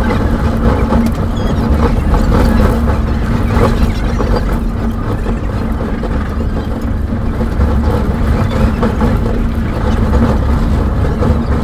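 Passenger train running, heard from inside the carriage: a steady rumble with a constant low hum.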